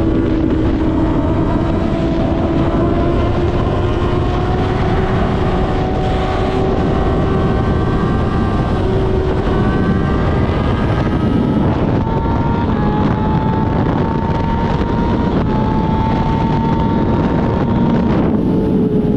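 Kawasaki ZX-6R's inline-four engine running at high revs under way, its note climbing slowly and steadily, under a heavy rush of wind on the microphone. The sound shifts abruptly about a second before the end.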